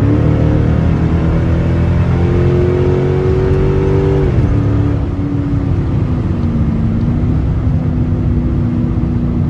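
Straight-piped Dodge Charger exhaust heard from inside the cabin, the engine pulling under acceleration with a slowly rising drone, then dropping in pitch at a gear change about four seconds in and running steadily at a lower pitch.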